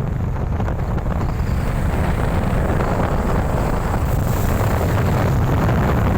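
Strong cyclone wind buffeting the microphone: a loud, steady, low rumbling rush.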